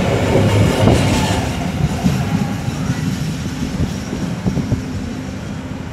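Passenger train coaches rolling past at speed through a station without stopping, their wheels clattering on the rails. The noise is loudest in the first second and a half and fades as the last coach passes and draws away.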